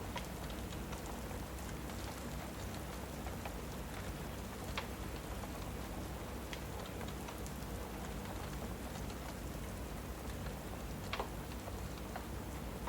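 Steady rain with a crackling fire: a constant rain hiss under scattered sharp pops and crackles, the loudest two about five seconds in and near the end.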